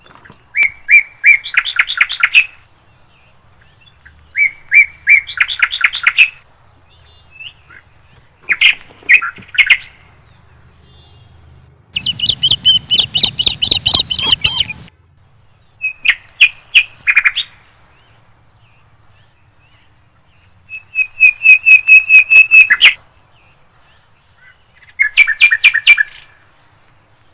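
A songbird singing loud phrases of quick chirps, seven in all with pauses of a couple of seconds between. The phrase in the middle is a longer, harsher chatter.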